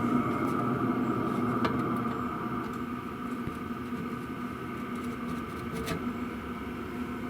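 Diesel heater running steadily through its exhaust silencers: an even, low hum with a higher steady tone over it, easing slightly in level about two seconds in, with a couple of faint clicks.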